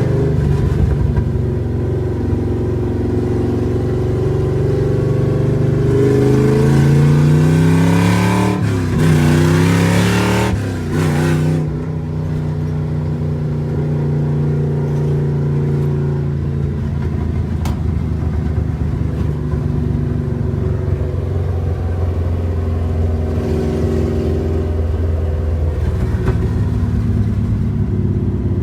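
The 327 small-block Chevy V8 of a hot-rodded 1955 Pontiac with a four-speed manual, pulling through the gears: the revs climb, drop at a gear change, climb again and break at another shift, then the engine settles into a steady cruise for the rest.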